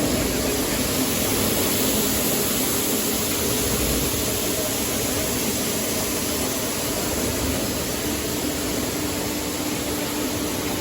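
Seed-cleaning and grading machinery running steadily: a continuous mechanical hum under an even rushing noise.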